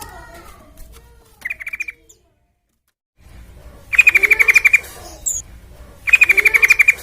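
Yellow-vented bulbul (trucukan) song: rapid rattling trills of evenly spaced high notes, a short one about one and a half seconds in and two longer, loud ones near four and six seconds, over softer chirps. The sound cuts out completely for about a second after the first trill.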